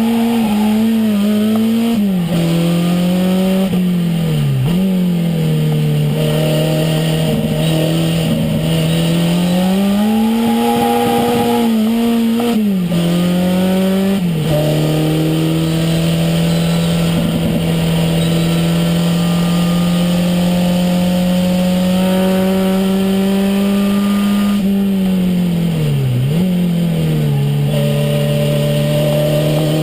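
Renault 5 Turbo's mid-mounted turbocharged four-cylinder heard from inside the cabin under hard driving: the engine note climbs and holds, then drops abruptly at each gear change or lift, about five times, with a long steady high-rev stretch in the middle.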